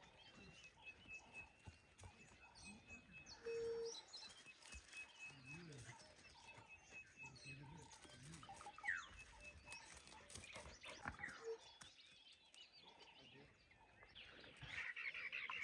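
Faint bush ambience of wild birds: a steady run of rapid high chirps, a couple of quick whistled calls, and a louder burst of chattering calls near the end.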